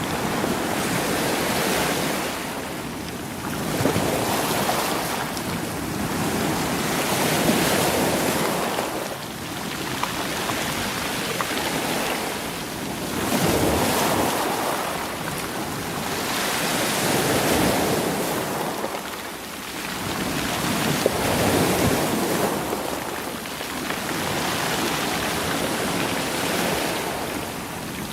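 Sea waves surging in over a rocky shore and washing back, rolling the stones. The wash swells and fades about every three to four seconds.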